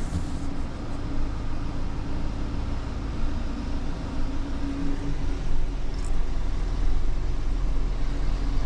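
Tow truck's engine running steadily at low speed, heard from inside the cab.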